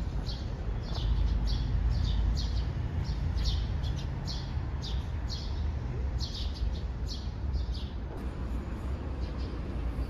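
A small bird chirping over and over, about two or three short high chirps a second, pausing briefly near the end, over a low steady rumble.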